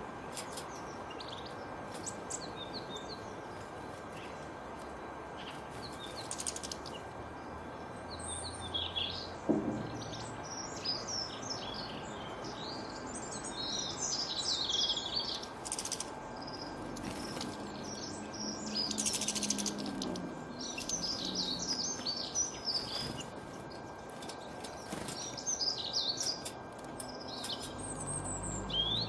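Small birds chirping and twittering in many short, high calls, some in quick rapid runs, over a steady background hiss, with a single sharp click about nine seconds in.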